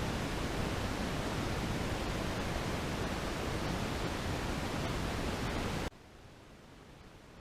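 A steady, loud rushing hiss that cuts off suddenly about six seconds in, leaving only a faint hiss.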